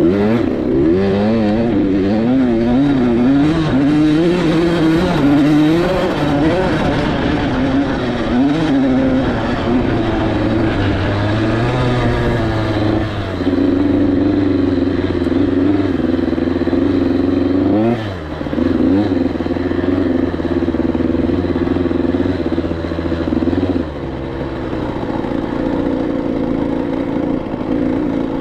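Single-cylinder two-stroke engine of a KTM 85SX dirt bike under way, revving up and down as the throttle is worked. About halfway it holds a steadier pitch, with a quick dip and rise in revs later on, then settles to a lower, quieter note near the end.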